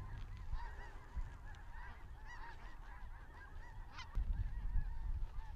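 A flock of snow geese calling overhead: many short, high, overlapping calls. One sharp click comes about four seconds in.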